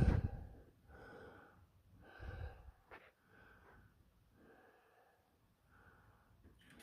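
Slow breathing close to the microphone, about one breath a second, with a louder puff at the start.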